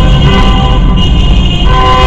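Several car horns sounding long, overlapping blasts, one dropping out and coming back about a second and a half in, over a steady low rumble of engines.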